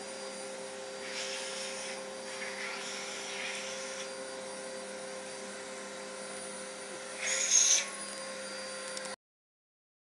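Vacuum cleaner running with a steady motor hum and a rushing hiss of air, with a brief louder hiss about seven seconds in. It cuts off suddenly at about nine seconds.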